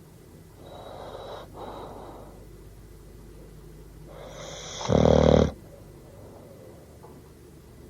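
Bull terrier snoring: a softer breath about a second in, then a loud snore that swells from about four seconds in and stops sharply about five and a half seconds in.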